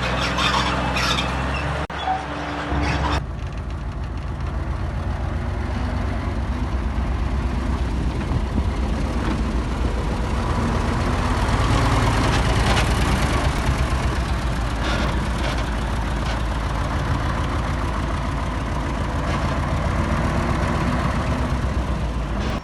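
Heavy diesel engine of earthmoving machinery running steadily under work, a low rumble with fast, even firing pulses. The sound changes abruptly about three seconds in.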